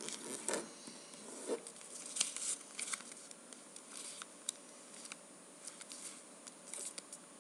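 Paper being folded by hand: faint scattered rustles and light clicks as flaps of a square sheet are creased to the center line, busiest in the first few seconds.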